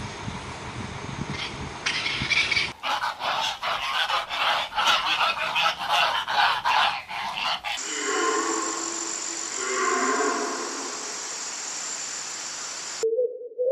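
Farm animal calls from several different recordings spliced together, the sound changing abruptly twice. The middle part is a quick run of repeated calls, about two to three a second. Near the end a wavering tone begins.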